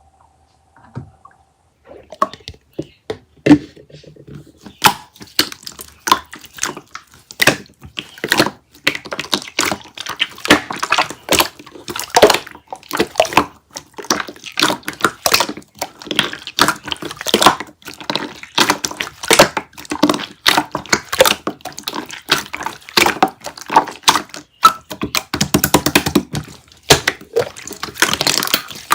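Hands squishing, pressing and poking a soft, wet 'pongdang' slime, making a dense run of irregular wet clicks, pops and squelches that starts about two seconds in.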